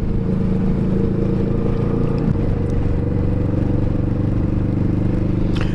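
Kawasaki Vulcan S motorcycle's parallel-twin engine running steadily while riding, its note shifting slightly about two seconds in.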